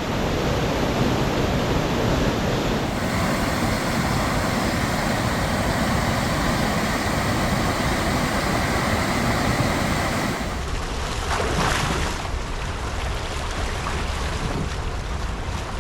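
Rain-swollen waterfall in heavy flood flow: a loud, steady rush of water, with wind on the microphone. The tone changes abruptly about three and ten seconds in.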